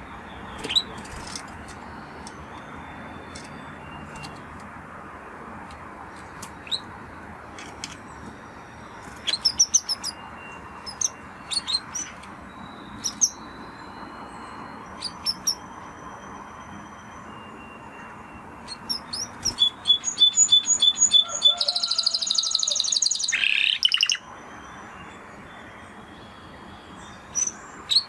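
Spanish Timbrado canary singing: scattered short chirps and whistled notes, building about two-thirds of the way through into a loud, fast rolling trill that lasts a few seconds. A steady background hiss lies under the song and drops away shortly after the trill.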